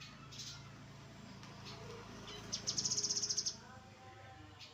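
Grey-headed canary-flycatcher song: a very fast, high trill lasting about a second near the middle, over a faint low hum.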